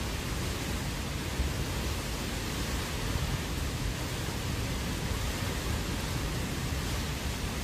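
Hurricane wind and rain: a steady, even rush of noise with a low rumble underneath.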